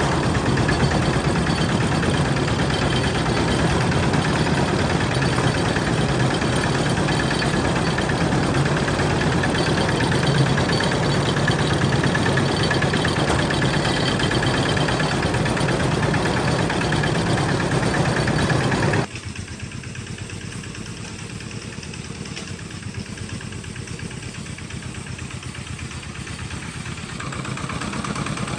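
Homemade tractor's engine running steadily with a low, even chugging. About two-thirds of the way through it suddenly drops to a quieter level.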